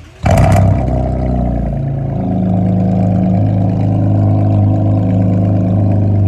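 Straight-piped, catless V6 car exhaust, very loud, coming in suddenly about a quarter second in and then running at a steady idle with a deep drone.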